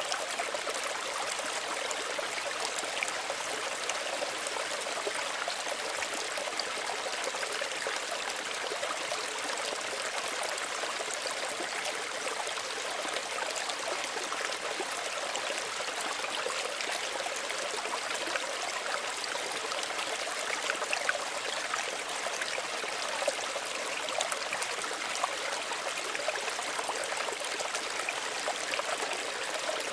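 Small stream running over stones, a steady splashing and trickling with many small gurgles and no change in flow.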